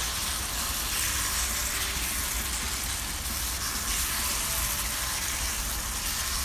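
Chopped green onions, tomatoes and spices sizzling steadily in hot oil in a pot over a high flame.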